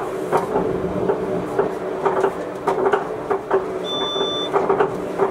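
Gornergrat Bahn electric rack-railway train running uphill: a steady hum with irregular clicks and knocks from the wheels on the track. A short high beep sounds about four seconds in.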